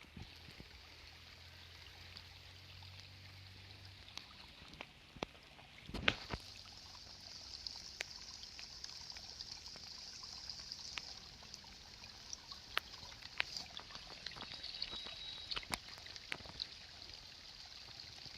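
Rain falling: a steady high hiss with many scattered sharp ticks of drops landing close by, and one louder knock about six seconds in.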